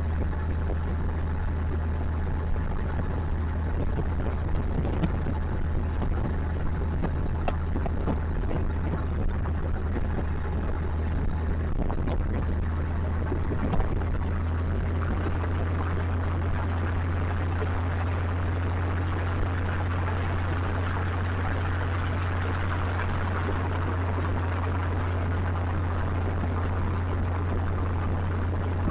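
Motorcycle engine running at a steady pace while riding, a constant low drone under road and wind noise, with scattered small ticks.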